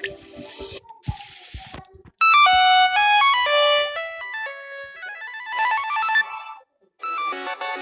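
Samsung Galaxy phone ringtones. After two short hissy bursts, a bright melody of short stepped notes plays and stops about six and a half seconds in. After a brief gap, another, denser ringtone starts.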